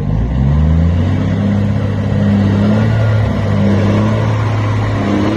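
Truck engine accelerating through the gears. Its pitch climbs, falls back at each shift and climbs again, several times over.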